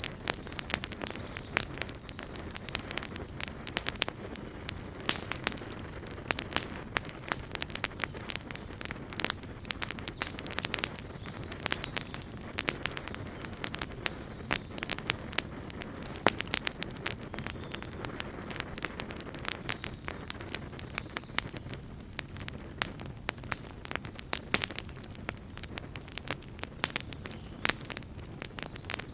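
Campfire crackling and popping: many sharp irregular snaps over a steady low hiss of burning wood.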